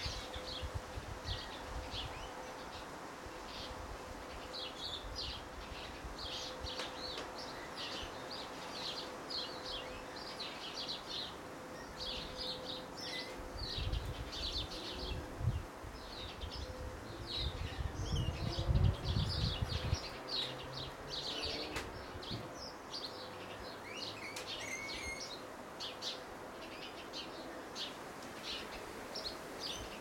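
Small birds chirping off-picture: a busy run of short, high chirps, densest through the middle. A low rumble rises for a few seconds past the middle, and a faint steady hum sits underneath.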